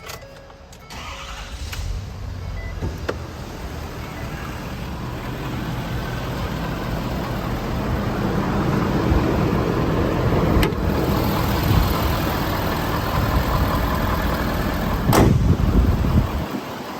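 Ford Power Stroke diesel V8 in an F-250 starting about a second in, then running steadily and getting gradually louder. There is a louder stretch near the end, then the engine sound cuts off abruptly.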